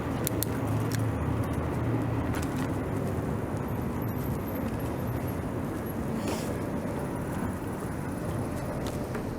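Street traffic heard from a moving bicycle: a car's engine hum in the first couple of seconds, over a steady rush of road noise, with a few light clicks.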